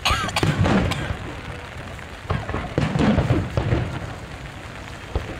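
Aerial fireworks bursting in the rain: a sharp bang right at the start, a few more cracks, then a cluster of deep booms about two to three and a half seconds in, over steady rain noise.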